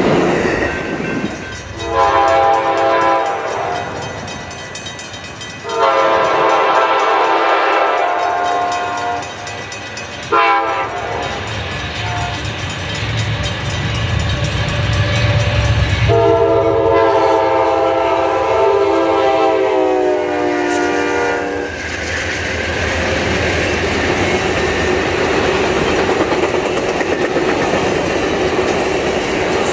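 Train horn sounding the grade-crossing signal: two long blasts, a short one and a final long one held for about five seconds, the warning for an approaching road crossing. Rail noise of the passing train rumbles between the blasts and carries on steadily after the last one.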